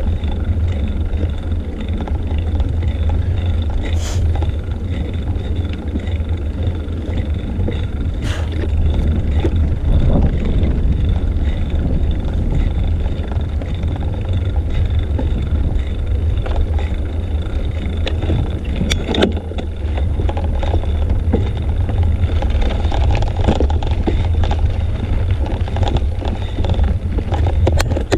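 Wind buffeting the microphone of a bike-mounted GoPro while riding along a road, a loud, steady low rumble mixed with tyre and road noise, with a few sharp clicks.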